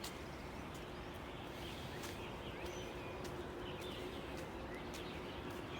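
Small birds chirping faintly now and then over a steady background hum and a few light clicks.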